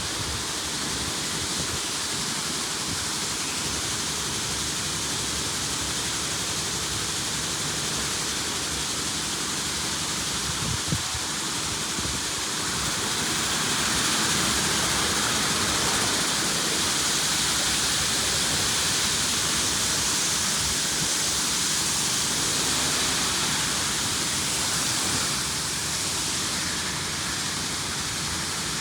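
LaserWash G5 touchless car wash spraying water over the car, heard from inside the cabin: a steady hiss of water on the body and windows. It grows louder about halfway through, then eases near the end.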